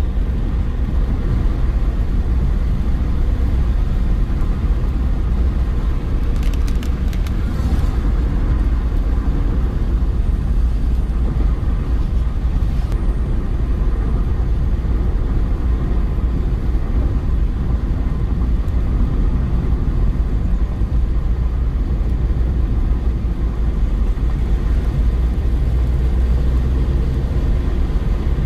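Car being driven at a steady pace, with a continuous low rumble of engine and road noise. A few brief clicks come about six to eight seconds in, and another around thirteen seconds.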